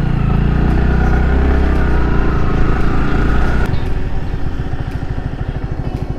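Yamaha R15 V3's single-cylinder engine accelerating, its pitch rising for about three and a half seconds. The pitch then drops suddenly and the engine runs on steadily at lower revs.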